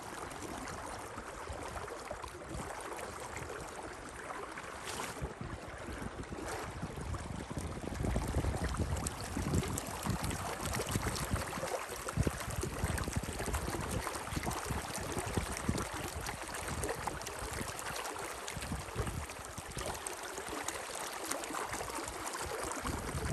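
Steady rush of flowing water, with gusts of wind buffeting the microphone, heavier from about eight seconds in.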